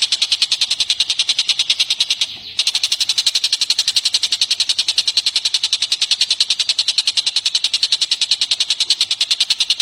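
A bird's rapid, even chattering trill of high notes, about ten a second, pausing briefly a little over two seconds in, from a bird-song tutoring recording.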